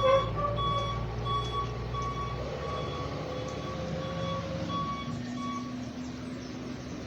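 Truck's reversing alarm beeping about twice a second over the low rumble of its engine; the beeps fade away about five seconds in.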